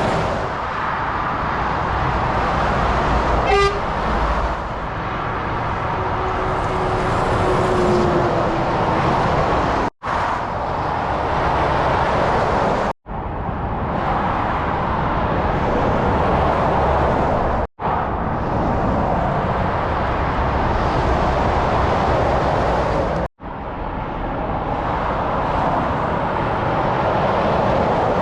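Motorway traffic: lorries and cars passing at speed in a steady roar of engines and tyres, with a horn sounding for about two seconds, its pitch dropping slightly. The sound cuts out briefly four times.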